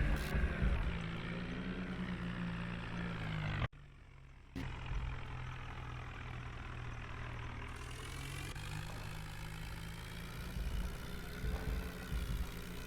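New Holland tractor's diesel engine running steadily, pulling a loaded trolley. About four seconds in, the sound drops out abruptly for just under a second.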